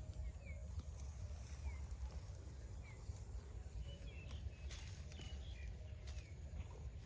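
Rural outdoor ambience: a steady low rumble, with a small bird giving short, faint, falling chirps about once a second.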